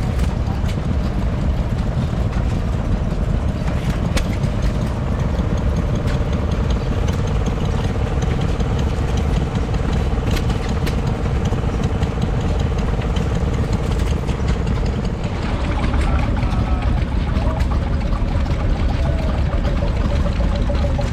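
Vintage stationary engine running steadily, with a dense low chugging. About fifteen seconds in the sound shifts and a steady hum drops out.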